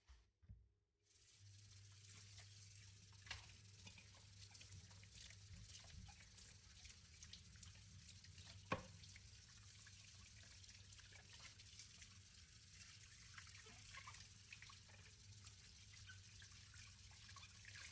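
Kitchen tap running into a sink while dishes are washed, with a few light knocks of dishes, one sharper knock about halfway. The water comes on about a second in and stops at the end.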